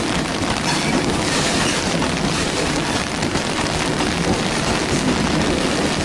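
Freight train's covered wagons rolling past at close range: a steady noise of steel wheels on rail, mixed with falling rain.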